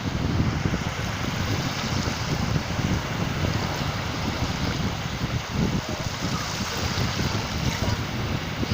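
Sea surf washing ashore with wind, the wind rumbling on the microphone.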